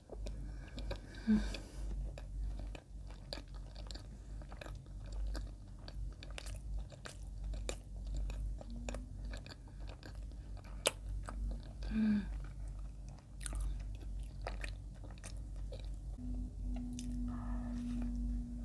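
Close-up chewing and biting of soft white bread with sweet spread, full of wet mouth clicks and smacks. Two short hums, about a second in and about twelve seconds in, and a held 'mmm' near the end.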